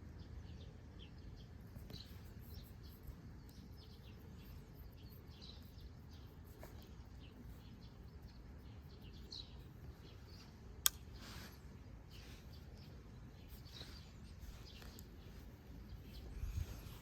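Quiet background with a low rumble and faint scattered bird chirps; a single sharp click about eleven seconds in.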